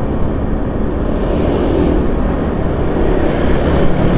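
Steady engine and road noise of a vehicle being driven along at speed.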